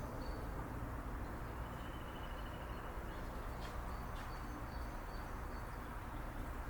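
Outdoor ambience: faint, thin bird chirps repeating over a steady low rumble, with a couple of short clicks about three and a half and four seconds in.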